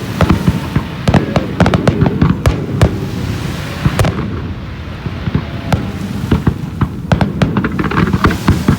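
Fireworks display going off: a dense, rapid crackle of many sharp bangs and pops, thinning a little about halfway through and thickening again near the end.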